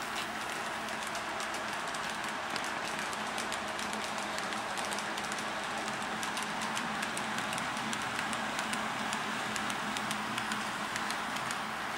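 HO scale model train running on a layout: a steady motor hum and wheel noise, with many small irregular clicks from the wheels on the track.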